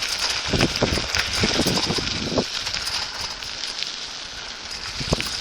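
Riding a bicycle, picked up by a phone strapped to the rider's chest: irregular knocks and rattles from the bike over uneven ground, a cluster in the first two and a half seconds and another about five seconds in, over a steady hiss.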